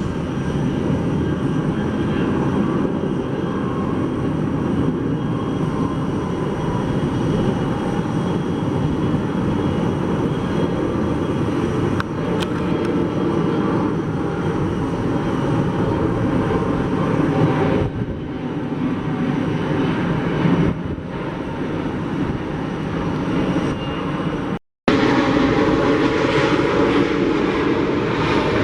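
Airliner jet engines running: a steady rushing noise with faint high whining tones. It breaks off for a split second about three-quarters of the way through, then resumes slightly louder.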